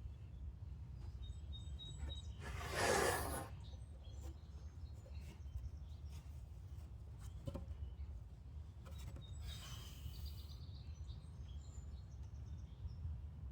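Steady low background rumble with faint bird chirps, broken by two short rushes of noise, a louder one about three seconds in and a weaker one about ten seconds in.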